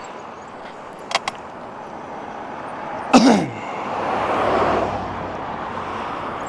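A car passes, its road noise swelling and fading about four to five seconds in, over steady wind and road noise. About three seconds in comes the loudest sound, a short tone sliding downward in pitch, with two light clicks a little over a second in.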